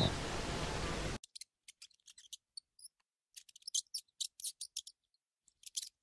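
About a second of steady outdoor hiss stops abruptly. Then comes a scattered run of faint, short, high squeaks and clicks from a rat.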